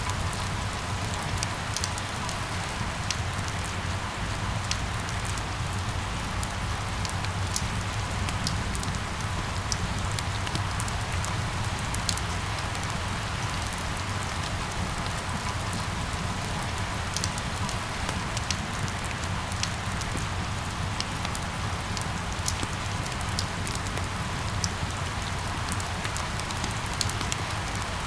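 Steady rain falling, with a constant patter and many individual drops ticking sharply, over a low steady rumble.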